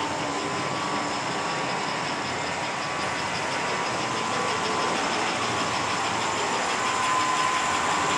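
American Flyer S-gauge model trains running on the layout track: a steady mix of motor hum and wheel rumble with a faint steady whine, growing slightly louder toward the end.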